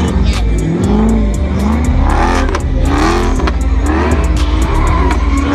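Car engine revving up and down hard, over and over, with tyre squeal: a car sliding or doing donuts.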